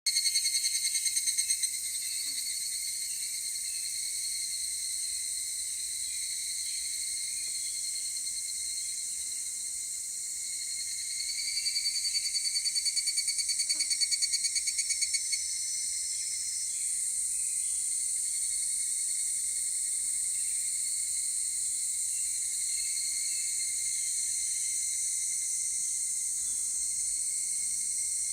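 Evening cicadas (higurashi, Tanna japonensis) calling: a steady high-pitched chorus, over which a close cicada's rapidly pulsed call ends in the first two seconds and another loud pulsed call runs from about 11 to 15 seconds in.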